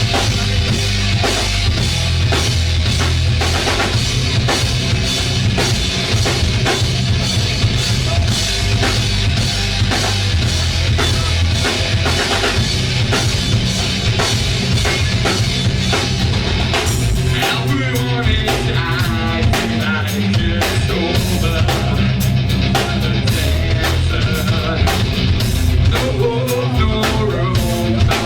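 Live rock band playing loud and fast, a drum kit driving a steady beat under guitar and bass. A little past halfway the hissing top end thins out and the drum hits stand out more.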